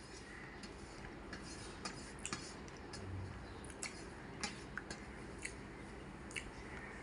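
Eating by hand from a plate: light, irregular clicks and taps, a few to a second, over a steady low hiss.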